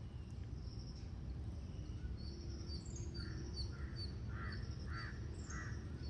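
Birds calling: a quick run of short repeated notes, high chirps with lower calls among them, starting about two seconds in, over a steady low background rumble.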